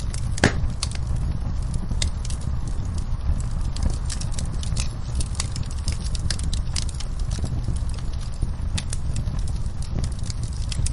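Wood fire burning in a fireplace, crackling with irregular sharp pops over a steady low rumble; one louder pop comes about half a second in.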